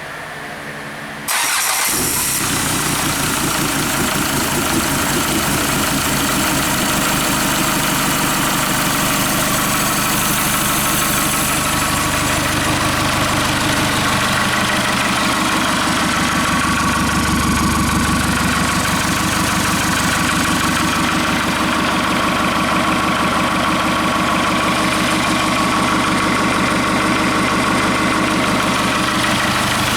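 Hyundai/Kia D4CB 2.5-litre four-cylinder common-rail diesel cranked and catching about a second in, then idling steadily.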